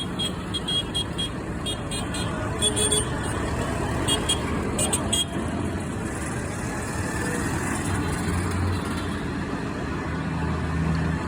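Engines of tractors in a parade running as they drive past, a steady low rumble, with a few short high tones in the first half.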